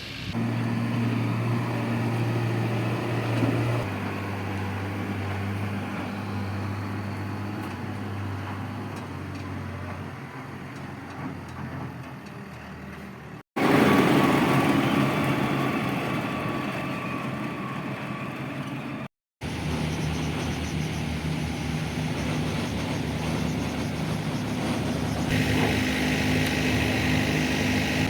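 Heavy diesel engines of construction machinery running, with a steady engine hum that shifts pitch now and then. The sound cuts out abruptly twice, about halfway and two-thirds through, and each time a different machine follows.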